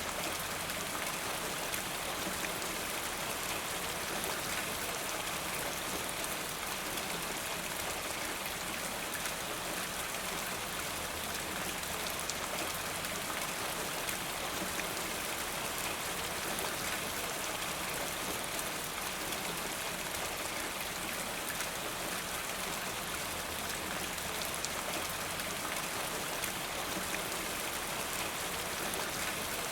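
Steady rain falling in a forest, an even, unbroken hiss of many drops with no single sound standing out.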